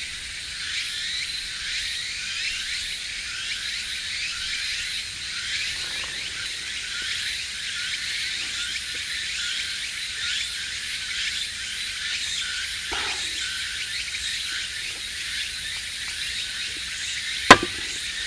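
A dense outdoor chorus of many high, quick chirps and squeaks. A single sharp crack comes near the end.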